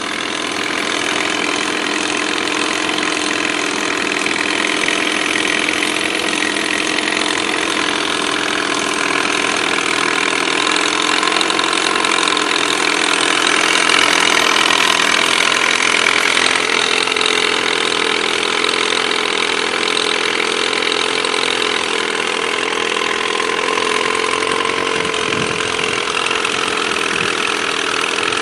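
1988 Evinrude Yachtwin 4 HP two-stroke twin-cylinder outboard motor running steadily at a low, even speed.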